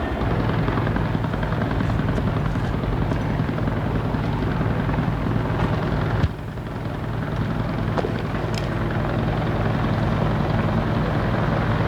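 Steady helicopter rotor and engine drone, heard from on board. About halfway through there is a click and the sound briefly drops before building back up.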